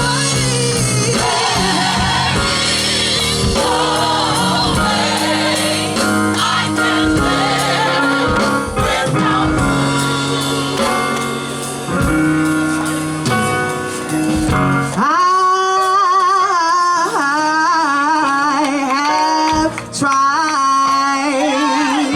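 Gospel group singing with a band behind them; about fifteen seconds in the instruments drop out and the voices carry on nearly alone, with a strong vibrato.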